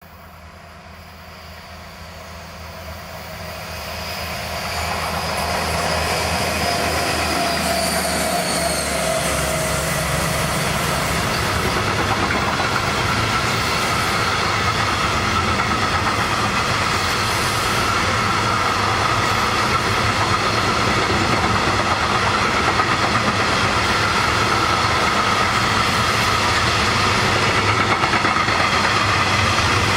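Two Class 218 diesel-hydraulic locomotives hauling a freight train approach and pass: the engines' drone grows louder over the first five seconds, with a tone falling in pitch about eight seconds in as they go by. The freight wagons then roll past steadily with wheel clatter and a high, steady wheel squeal.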